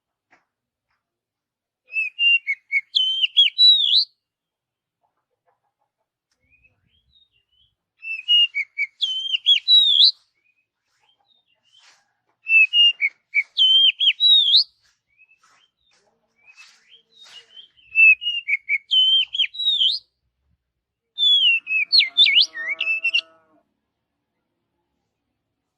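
Oriental magpie-robin (kacer) singing. Five short phrases of whistled, gliding notes, each about two seconds long and a few seconds apart. The last phrase has a lower, harsher note beneath it.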